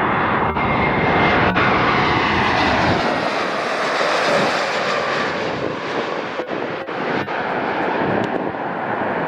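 An airliner's engines passing close: a loud, steady rush with a whine that slides in pitch. The deep rumble thins out about three seconds in.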